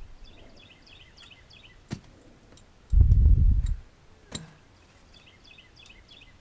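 A small bird chirping in short repeated phrases, twice. Two sharp clicks, about two seconds and four and a half seconds in, and a low rumble lasting under a second, about three seconds in.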